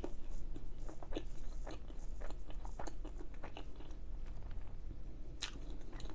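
A person chewing a mouthful of food with the mouth closed, close to the microphone: many small wet clicks and smacks, with one sharper click about five seconds in.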